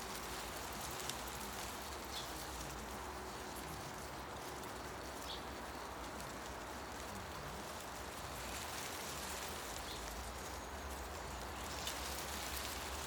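Wind moving through forest tree leaves, a steady rustling hiss with a few faint scattered ticks.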